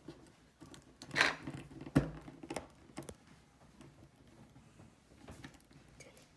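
Small clicks and taps from an action figure and its plastic packaging being handled, with a short rustle about a second in and a sharper click at two seconds.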